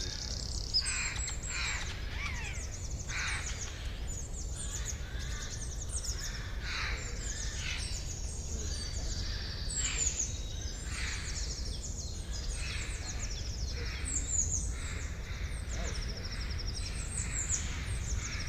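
Forest birdsong from many birds at once: dense, rapid high chirps and trills overlap continuously. Lower, rougher calls repeat roughly once a second. A steady low rumble runs underneath.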